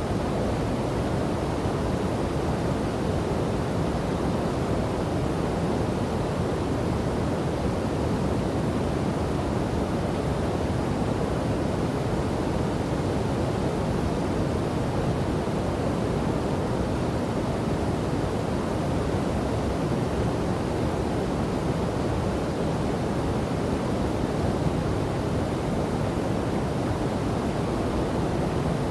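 Steady rush of falling and flowing water from a waterfall and river, a constant deep roar of spray with no separate splashes or other events.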